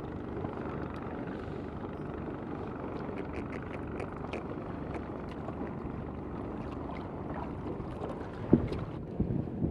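Steady wash of sea water with wind on the microphone, a few faint clicks and one sharp knock near the end.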